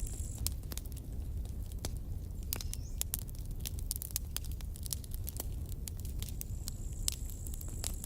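Campfire burning wood, crackling and popping irregularly over a steady low rumble. A thin high whine comes in for the last second or so.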